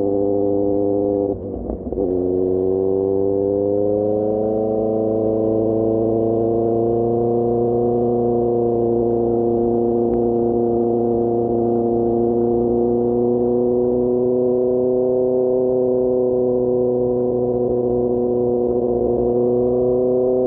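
QJMotor SRK600 inline-four engine through a Pure Austin Racing GP1R exhaust, running under way: a quick upshift about a second and a half in drops the note, then the revs climb gradually and settle into a steady cruising drone.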